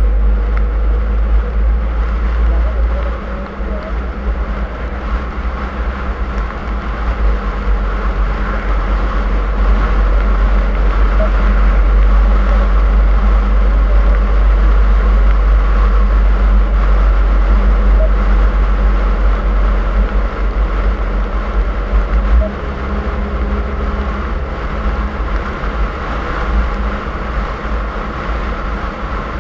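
Car driving steadily, a constant low rumble of engine and road noise that eases slightly about three seconds in and again about three quarters of the way through.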